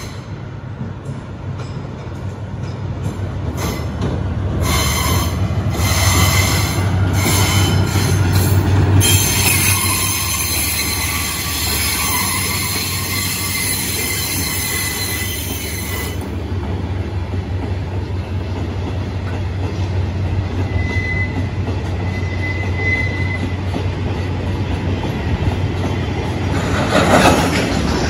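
DF200 diesel-electric freight locomotive running past with a train of empty cement tank wagons: a steady low engine drone and rolling wheels, with high-pitched wheel squeal from about four seconds in to about sixteen seconds in, and a brief louder rush near the end.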